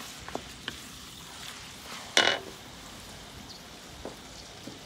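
Onions, ginger and garlic frying faintly in oil in a wok while a wooden spatula stirs them, with a few light clicks and one short, louder rasp about two seconds in.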